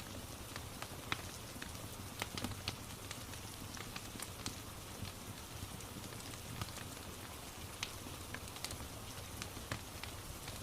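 Crackling fireplace with frequent irregular sharp pops and snaps over a steady hiss of falling rain.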